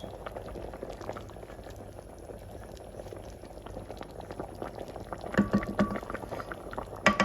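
Pot of chicken soup bubbling on the stove, a steady simmer of small pops. A few sharp metallic clinks with a short ring come about five and a half seconds in and again near the end.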